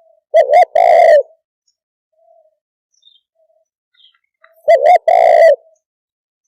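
Spotted dove cooing: two calls about four seconds apart, each two short coos run straight into a longer coo.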